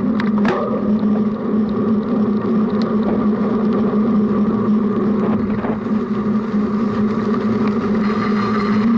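Cyclocross bike rolling at a steady pace, heard through a front-mounted action camera: a steady hum from the tyres and frame, with a few sharp rattling knocks near the start.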